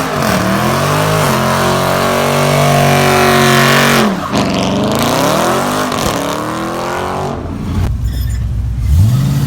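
Vehicle engine revved hard several times. It climbs and holds high revs for a couple of seconds, drops sharply about four seconds in, revs up again, then falls low and picks back up near the end.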